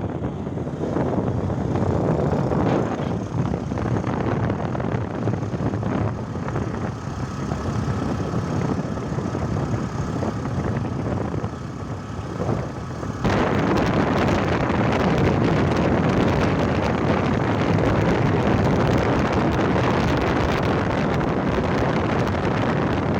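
Motorcycle riding along, with wind rushing over the rider's microphone over the engine. About halfway through, the rushing suddenly gets louder and brighter and stays that way.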